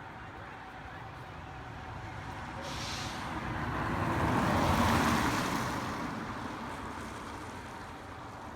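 A road vehicle driving past: its engine and tyre noise grows louder to a peak about five seconds in, then fades away.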